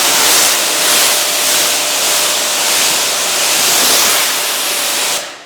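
Water spraying onto a car windshield to rinse it, a loud steady hiss that cuts off sharply about five seconds in.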